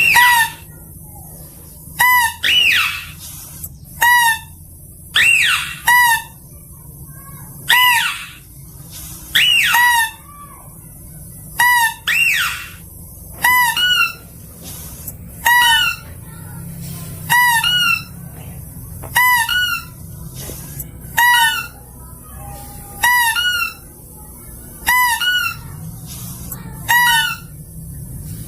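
Lure recording of the lesser mouse-deer (kancil) call: short high-pitched calls repeating about every two seconds, with louder falling squeals mixed in during the first half.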